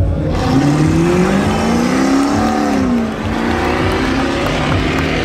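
A car engine revving hard as the car accelerates past. Its pitch climbs for about two seconds and then drops away, over a steady rushing noise.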